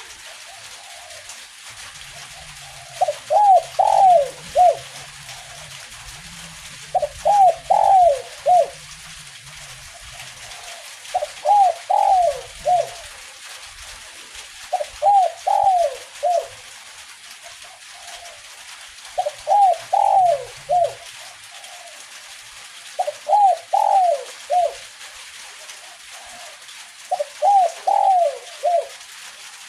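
Spotted dove (tekukur) singing its 'kuk 1' coo song: a phrase of about four cooing notes, the last one short, repeated seven times about every four seconds.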